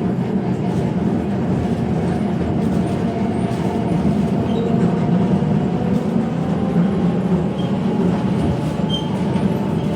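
Heritage electric tram running on street track, heard from on board: a steady rumble of wheels and running gear with faint whining tones above it.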